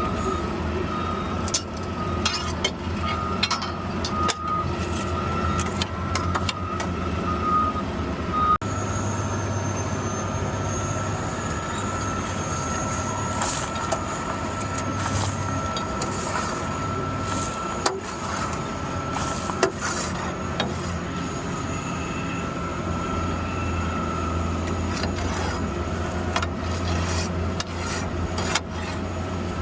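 Garbage truck running, heard from inside the cab: a steady low engine hum under a steady high-pitched whine, with scattered clicks and knocks.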